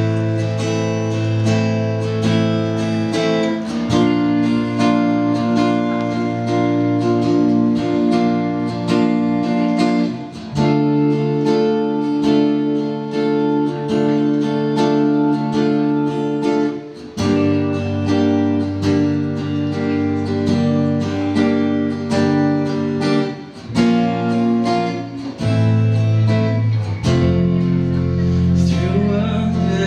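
Instrumental song intro played live: strummed acoustic guitar chords, changing every few seconds over a steady low bass.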